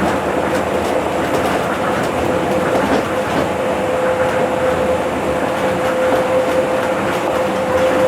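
Tokyo Monorail straddle-beam train running at speed: a steady rumble from its rubber tyres on the concrete guideway, with faint ticks. A steady hum sets in about three seconds in and holds.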